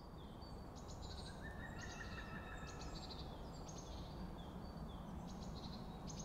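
Small birds calling in woodland: a run of short, high chirps and trills repeated every second or so, with one longer, lower call about a second in, over a faint low background hum of outdoor noise.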